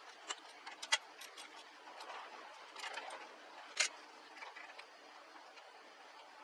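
Scattered light clicks and taps over faint background hiss, with two sharper clicks about a second and about four seconds in.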